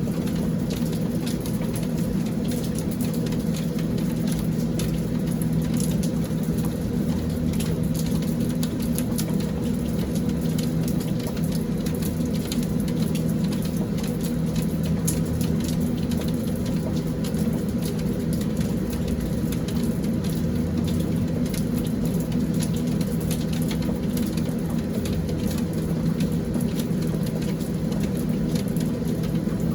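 Steady rain shower pattering down, with many individual drop ticks. A steady low hum runs underneath.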